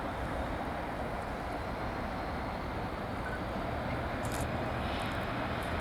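Diesel locomotive running past with a steady rumble, growing slightly louder about four seconds in.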